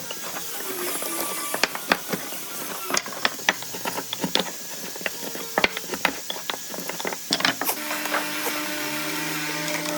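Irregular sharp taps and clicks of wood and tools being handled in a workshop, over a steady hiss. About eight seconds in, a steady hum sets in.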